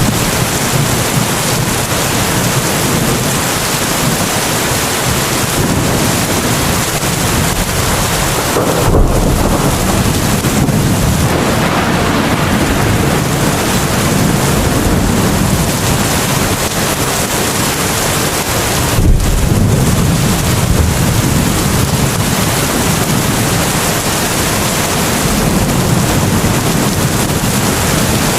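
Heavy, steady rain with thunder rumbling low about nine seconds in and again around nineteen to twenty-one seconds.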